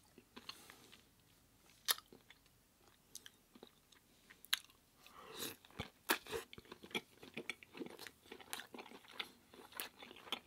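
A person chewing and crunching crisp food close to the microphone: a few sharp, separate crunches in the first half, then steadier, denser chewing from about halfway through.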